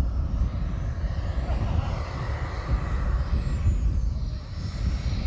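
Model jet's Merlin 160 turbine engine running with a high whine that rises and then falls in pitch, over a heavy low rumble.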